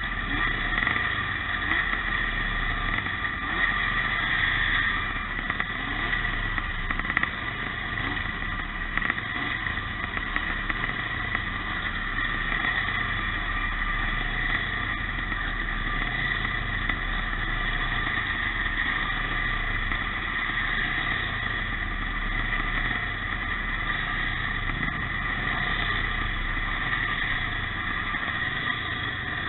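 Engines of pre-1965 motocross motorcycles racing, running continuously with no break.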